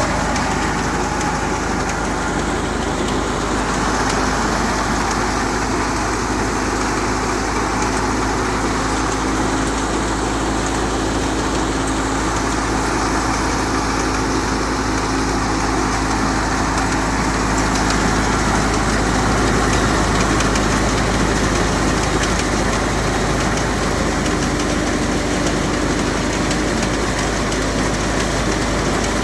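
Massey Ferguson 385 tractor's four-cylinder diesel engine running steadily under load, driving a wheat thresher, with the thresher's machinery drone mixed in. The sound is steady and unchanging throughout.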